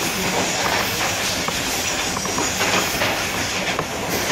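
Passenger train running at speed, heard from inside a coach: a steady rush and rumble of wheels on rail, with occasional sharp clicks of the wheels passing over rail joints.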